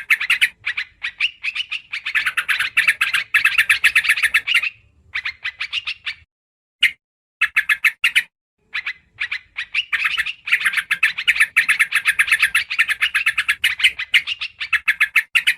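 Yellow-vented bulbul (trucukan) lure song: rapid chattering notes in bouts, with two long runs, one from about 1.5 to 5 seconds in and another from about 10 seconds to the end, and short phrases between them.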